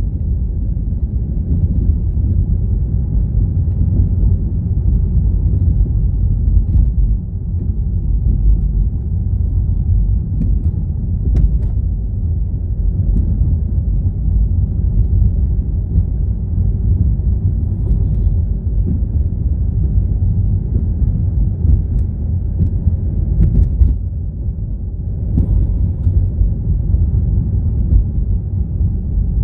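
A car driving: a steady low rumble of engine and road noise, with a few faint ticks.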